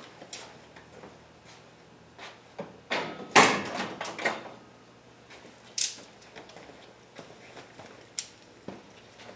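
Scattered clicks and knocks of tools and metal parts being handled, with a burst of clattering about three to four and a half seconds in and single sharp clicks later on.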